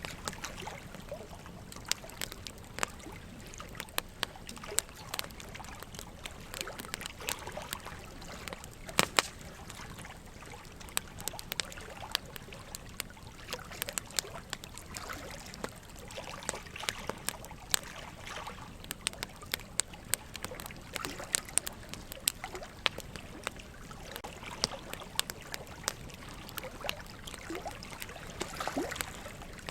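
Wood fire crackling, with irregular sharp pops and snaps, over a steady trickle of running water.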